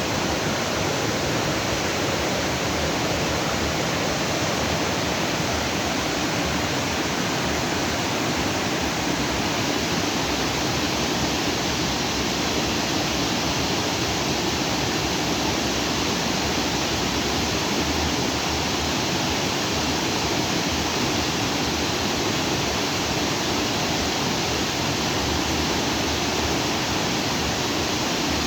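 Stream water rushing steadily over rocks, a constant even rush.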